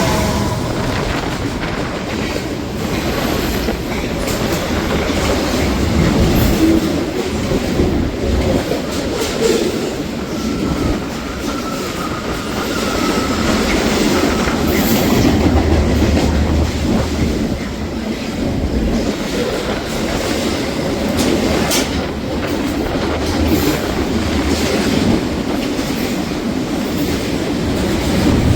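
A train passing through the station without stopping: a continuous loud rumble of wheels on the rails, with scattered sharp clicks in the second half and a faint thin squeal of wheels partway through.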